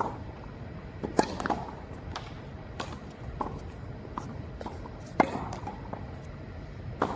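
Tennis ball being struck by rackets and bouncing on the court during a rally: several sharp pops at uneven gaps of about a second.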